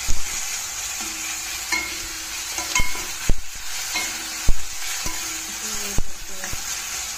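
Tomato and spice masala sizzling as it fries in a stainless steel kadhai, stirred with a metal spatula that scrapes the pan and clinks against it about six times.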